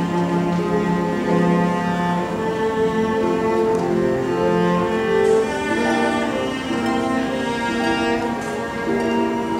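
Music on bowed string instruments, with low held notes and several notes sounding together that change about every second.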